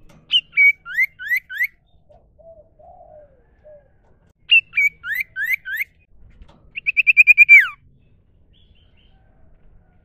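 Common iora (cipoh/sirtu) singing: two matching phrases of a couple of short whistles followed by three quick rising notes, then a fast trill that ends in a falling slur.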